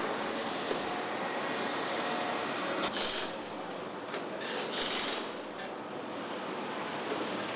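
Assembly-plant floor noise: a steady mechanical din with a few short hissing surges, about three seconds in and again near five seconds.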